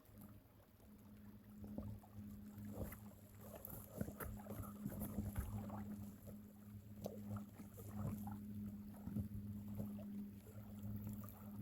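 A kayak's small motor running steadily with a low, even hum, while water laps and knocks lightly and irregularly against the hull.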